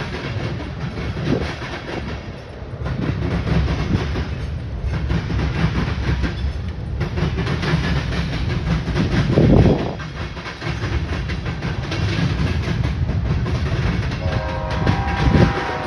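Freight train passing close by: a steady rumble with the rapid clicking and clacking of wheels over the rails. Near the end a chord of steady tones comes in.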